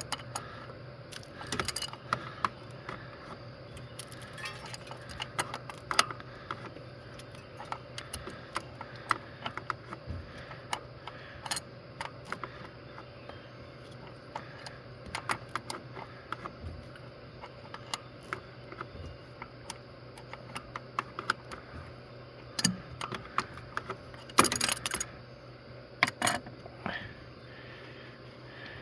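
Irregular light clicks and metallic clinks of hand tools and engine parts being handled while the oil filter cover is taken off, with a cluster of louder clatter about 24 seconds in. A steady low hum runs underneath.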